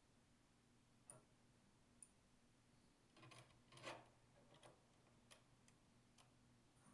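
Near silence with a low steady hum, broken by a few faint metallic clicks and taps and one short rattle a little before the middle: a wrench working the fittings as the braided hoses are tightened onto the detergent pump.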